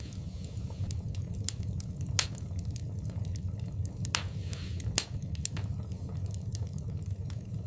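Wood fire burning in a fireplace: a steady low rumble of the flames with irregular sharp crackles and pops, a louder pop about two seconds in and a short hiss of escaping gas around four seconds in.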